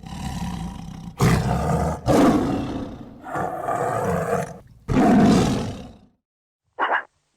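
Big cat roaring: five long, loud, rough roars one after another over about six seconds, then a short, sharp call near the end.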